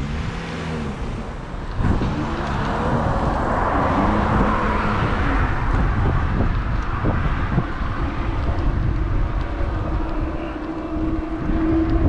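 Road traffic heard from a moving bicycle, with wind rushing over the microphone; a vehicle's tyre noise swells as it passes about four seconds in.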